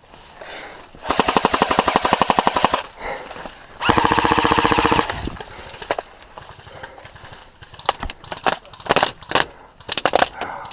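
Airsoft electric guns firing on full auto: a rapid burst of about two seconds starting a second in, then a second, faster buzzing burst a little before the halfway point. Scattered single sharp cracks follow near the end.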